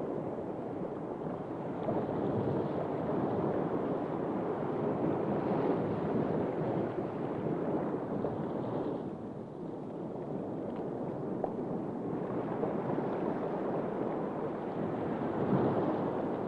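Steady rushing, surf-like water noise, easing for a moment about nine seconds in.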